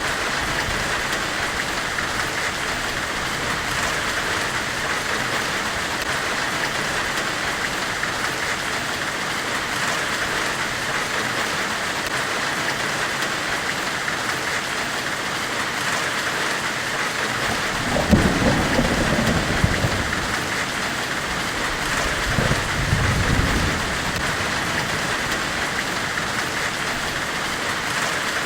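Steady, even hiss of a blacksmith's forge fire, with two low rumbling surges about 18 and 22 seconds in.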